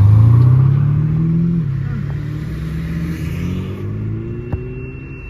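Ferrari SF90 Stradale accelerating hard away, its engine note climbing through the gears with two upshifts, one about a second and a half in and another about three seconds in, loud at first and fading as it pulls away.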